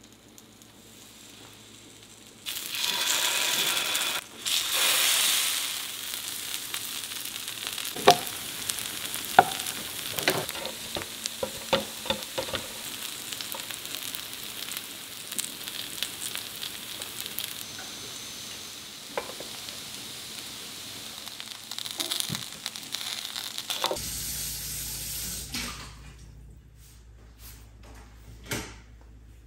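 Battered lotus root slices sizzling in oil on a hot electric griddle. The sizzle jumps up a few seconds in as they go down on the plate, then settles. Sharp clicks come from chopsticks against the griddle as the slices are turned, and the sizzling stops abruptly near the end, leaving a low hum and one clack.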